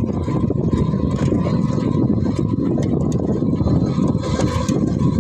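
A small engine running steadily, a dense rumble with a faint constant whine above it.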